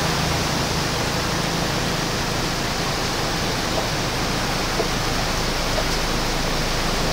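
Steady rushing of a muddy floodwater torrent.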